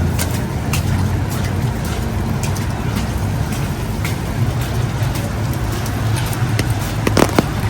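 City street ambience: a steady low rumble of road traffic, with scattered short clicks and knocks, and a louder knock near the end.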